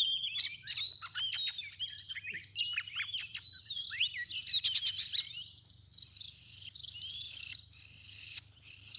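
Oriental magpie-robin (kacer) singing: a dense, varied run of quick whistles and chirps.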